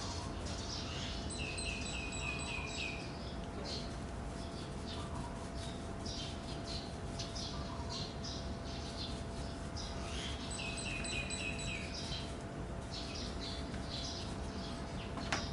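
Songbirds chirping, with one bird twice singing a quick phrase of about six even repeated notes, a second or so in and again about nine seconds later. A faint steady hum runs underneath.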